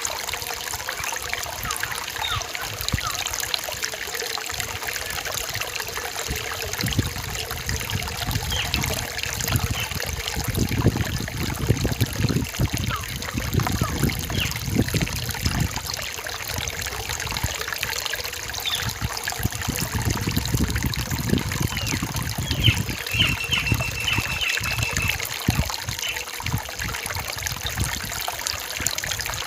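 Small forest stream trickling and gurgling steadily over its bed. Faint high bird chirps come and go above it, with a short even high trill about two-thirds of the way in.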